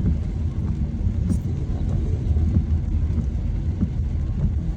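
Car driving on a wet, rain-soaked road, heard from inside the cabin: a steady low rumble of engine and tyres.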